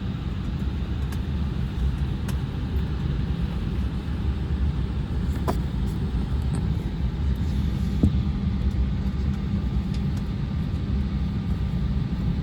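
Steady low rumble inside the passenger cabin of an Embraer 175 regional jet, its engines running, with a couple of faint clicks partway through.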